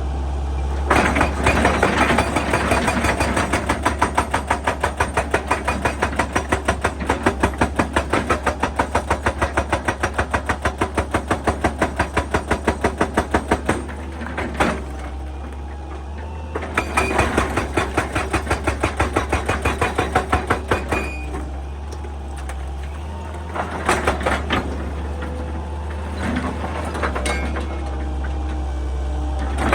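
Excavator-mounted hydraulic breaker hammering rock in rapid, evenly spaced blows over the excavator's steady diesel engine hum. A long run of blows fills most of the first half, a second run follows a few seconds later, and shorter bursts come near the end.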